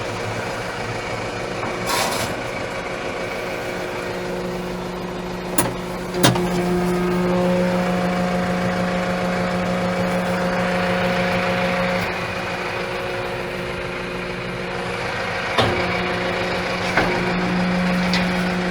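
Steyr 4075 tractor's four-cylinder diesel engine running at a steady speed. From about six to twelve seconds in it runs a little louder with an added higher whine. A few sharp clicks come through along the way.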